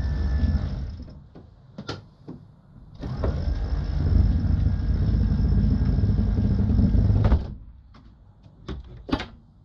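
A motor vehicle's engine running with a steady low rumble in two stretches, one ending about a second in and one from about 3 s to about 7.5 s, each cutting off abruptly. Between and after them come a few sharp clicks and knocks.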